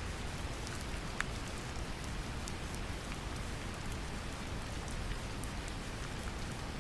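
Brown noise mixed with gentle rain: a steady, deep hiss that is heaviest in the low end, with scattered single drop ticks on top.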